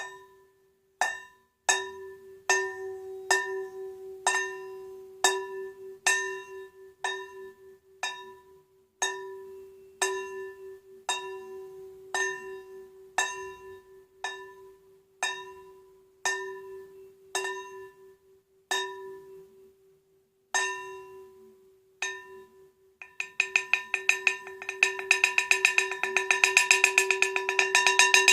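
A bell-like metal percussion instrument struck over and over, about once a second, each strike ringing on, with one steady tone held underneath. Near the end the strikes quicken into a fast roll.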